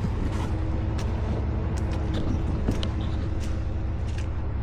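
Rollback tow truck running, a steady low engine and road rumble with a few light clicks and rattles.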